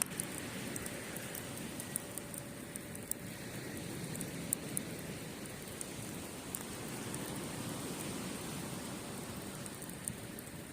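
Wood fire crackling with frequent small sharp pops, over the steady wash of waves on the shore.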